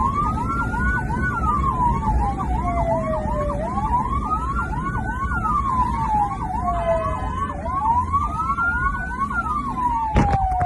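Emergency vehicle sirens: a slow wail rising and falling about every four seconds, layered over a fast whooping sweep about three times a second, with a low rumble underneath. A single sharp click comes near the end.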